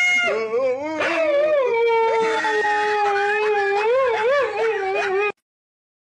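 A dog howling: one long drawn-out call that dips in pitch early, wavers near the end and cuts off suddenly about five seconds in.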